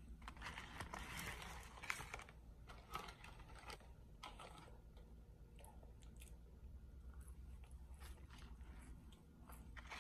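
A person chewing McDonald's french fries, faint, most audible in the first two seconds, with scattered small clicks of mouth and fingers after.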